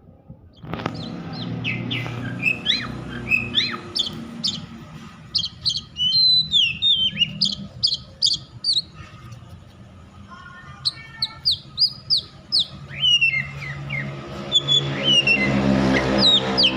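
Oriental magpie-robin (kacer) singing in a highly agitated, fired-up state, the kind of song used to provoke other magpie-robins into singing. It gives fast bursts of sharp whistles and quick down-slurred notes, starting about a second in, easing off briefly midway, then picking up again.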